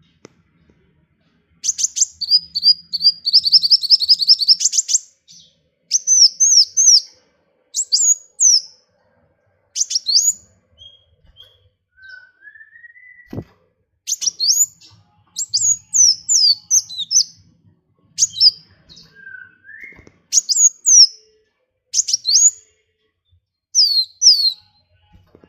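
Small songbird singing high-pitched chirps: a rapid trill lasting about three seconds begins about two seconds in, followed by short sharp phrases repeated every second or two. Two lower rising whistles come in between, about halfway through and again near the end.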